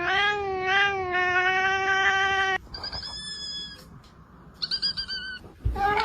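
A cat's long, drawn-out yowling meow, rising at the start and then held with a slight waver for about two and a half seconds. It is followed by two shorter, much higher-pitched cries, and a new rising meow begins near the end.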